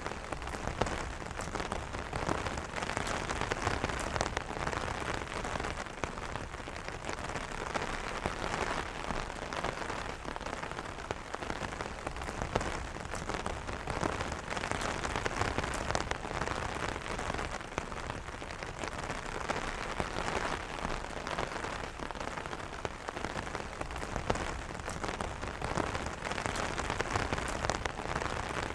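Steady rain pattering on an umbrella canopy, a dense patter of many small drops with scattered sharper drop hits.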